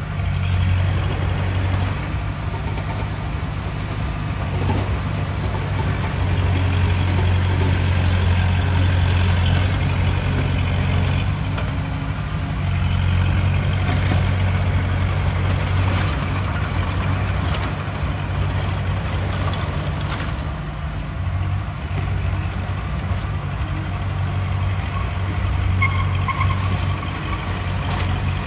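Heavy diesel engine of earthmoving machinery running under load with a steady low drone that swells and eases a little, with brief clanks and rattles over it.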